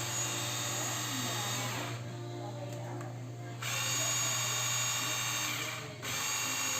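Cordless battery-powered portable pressure washer's motor and pump running with a steady high whine, cutting out about two seconds in and starting again a second and a half later, with another brief break near the end.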